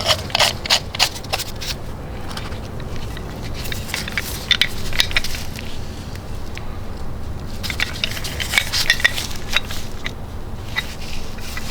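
Scattered sharp metallic clicks and clinks, some ringing briefly, in loose clusters over a steady low background.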